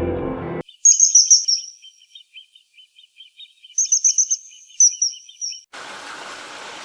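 Wild birds calling: two bursts of rapid, high-pitched trilling notes, the first about a second in and the second near four seconds, over a steady run of lower repeated chirps. Background music cuts off just before the birds start, and a steady hiss begins near the end.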